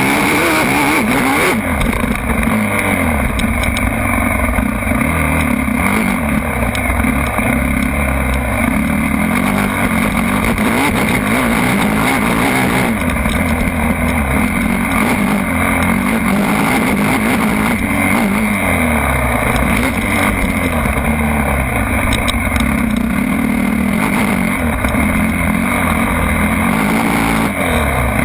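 Motocross bike engine running hard, its pitch repeatedly rising and falling as it revs up and eases off.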